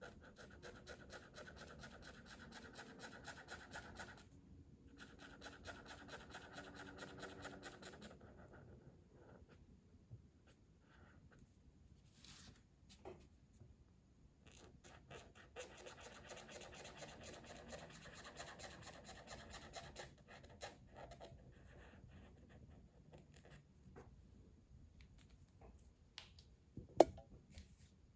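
A colouring tool scratching on paper in rapid back-and-forth strokes: two long runs at the start, sparser strokes, then another run in the middle. A single sharp click near the end.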